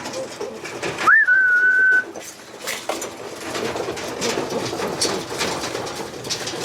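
A single whistled note about a second in, rising quickly and then held level for about a second. After it, tippler pigeons cooing and stirring, with scattered small clicks and taps of birds moving about.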